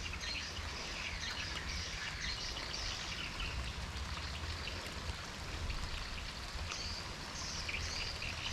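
Rain falling steadily, an even patter of drops.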